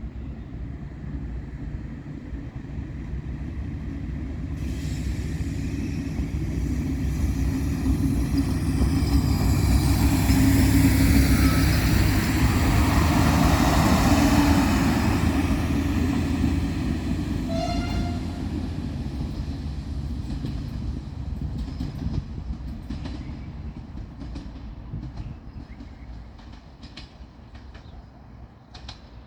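Diesel multiple unit no. 96-2573-5 running past, its engine and wheels growing louder, peaking midway, then fading as it moves away. A brief horn note sounds about two-thirds of the way through, and the wheels click over rail joints as it recedes.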